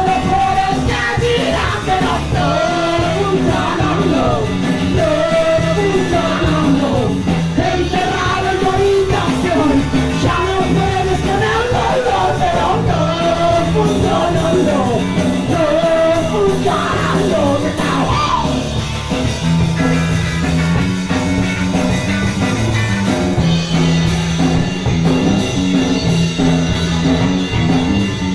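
Hardcore punk band playing live, with a singer's vocals over the full band; the vocals stop about two-thirds of the way through and the band plays on.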